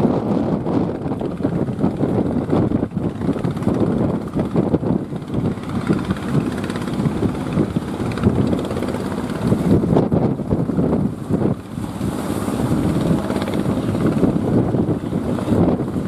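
Strong wind blowing across the microphone in uneven gusts, a loud low rumble that swells and dips.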